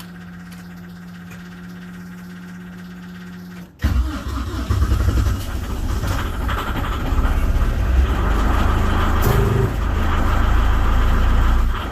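A steady hum, then about four seconds in the Fat Truck amphibious vehicle's diesel engine catches suddenly on a cold start at −29 with no block heater or starting aid, after glow-plug preheating. It keeps running loud and uneven, struggling in the cold.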